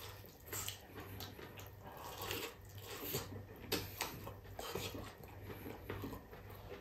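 A person biting into and chewing boiled corn, close up: irregular small clicks and mouth noises of chewing.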